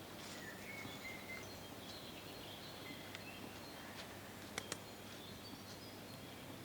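Quiet forest ambience with faint bird calls, short high chirps scattered throughout. Two sharp clicks come close together about four and a half seconds in.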